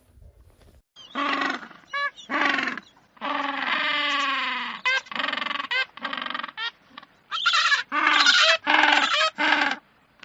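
An animal calling over and over, about a dozen loud pitched calls starting about a second in. Some are held for a second or more and some are short with a fast waver in pitch.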